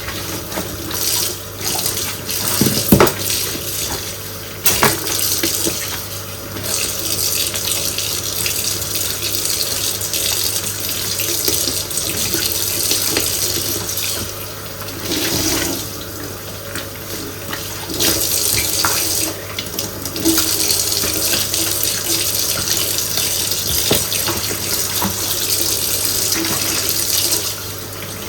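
Tap water running into a sink while dishes are washed by hand, with scattered clinks and knocks of dishes against each other and the sink, and the flow changing as items pass under the stream.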